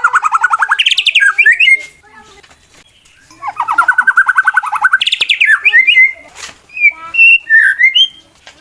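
Male white-rumped shama singing an aggressive challenge song, the kind used to provoke rival males into fighting. It gives fast, stuttering runs of repeated notes that climb into short sliding whistles, falls silent for about a second and a half, then starts another run.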